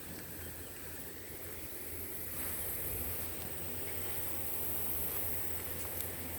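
Outdoor ambience: a steady high-pitched insect chorus, swelling a little about two seconds in, over a low rumble on the microphone.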